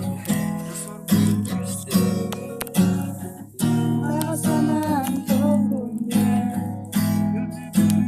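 Acoustic guitar strummed in a steady rhythm, with a strong strum on the beat a little under once a second and chords ringing between.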